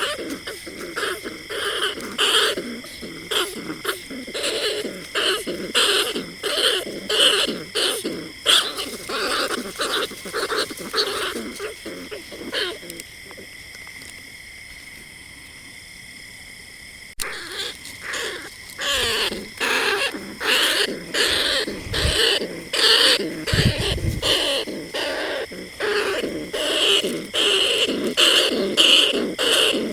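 Greater bandicoot rat calls, a recording of the kind played as a night-time hunting lure, repeated about twice a second. The calls stop for a few seconds in the middle, then start again abruptly.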